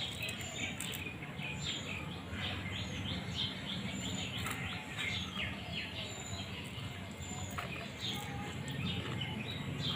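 Small birds chirping outdoors, many short falling chirps several times a second, over a steady low background hum.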